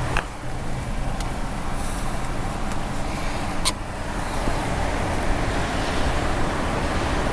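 Steady car and traffic noise with a low engine hum, broken by a few sharp clicks; the loudest click comes about three and a half seconds in.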